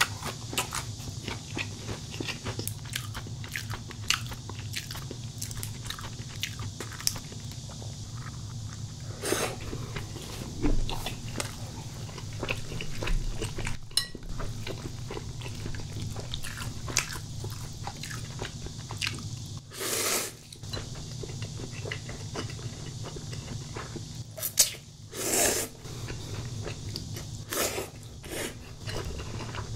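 Close-miked eating: steady crunching and chewing of food, full of small wet clicks, with a few longer, louder bites or mouthfuls spread through.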